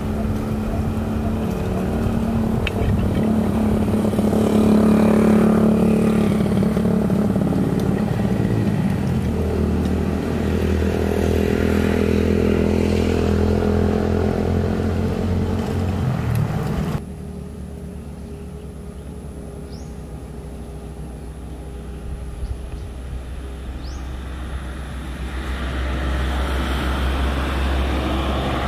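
Motorcycle engine running on the road, its pitch shifting with speed. About two-thirds of the way in the sound cuts off abruptly to a quieter, lower engine drone that grows louder again near the end.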